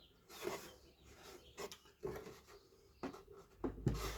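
A scrap wood board being pressed into a tight fit inside a small wooden birdhouse: faint wood-on-wood rubbing and scraping with a few light knocks.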